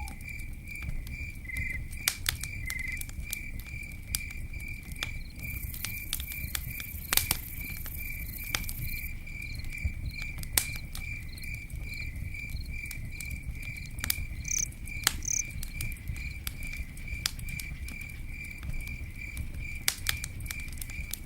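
Campfire crackling, with scattered sharp pops over a low steady rumble of burning wood. A cricket chirps steadily underneath in a fast, even pulsing trill.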